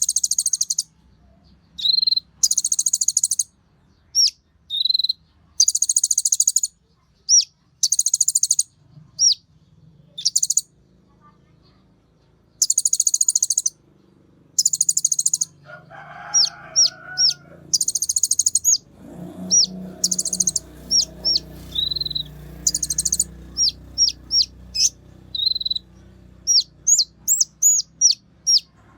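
Olive-backed sunbird (kolibri ninja) singing energetically: repeated high, buzzy trills about half a second to a second long, mixed with short, sharp, high down-slurred chips. A faint low background noise joins about two-thirds of the way through.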